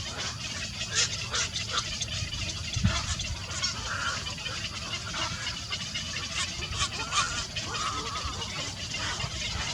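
Birds calling and chirping in short, scattered notes, with a few longer calls, over a steady low rumble.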